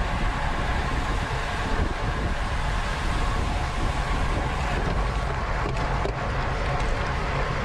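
Wind rushing over the microphone of a camera on a road bike ridden at race speed, a steady rumbling noise, with tyre hum underneath.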